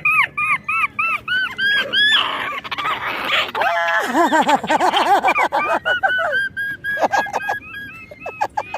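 Rapid series of short, arching chirping animal calls, about three or four a second, with a lower-pitched run of calls in the middle.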